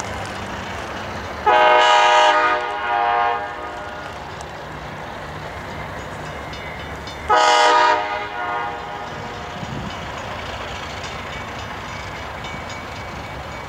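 Air horn of an ALCO diesel locomotive sounding twice: a long blast about a second and a half in, with a brief drop in level partway through, and a shorter one about seven seconds in. Between and under the blasts the diesel engine runs steadily.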